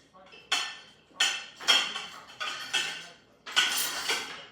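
Dinner plates clinking and clattering against each other as they are handled and stacked: a series of about six sharp clinks, each ringing briefly, with a longer clatter near the end.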